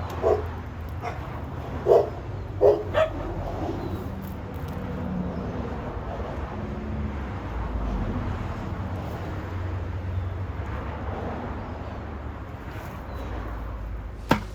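A dog barking, four short barks in the first three seconds, over a steady low rumble. There is a single sharp click near the end.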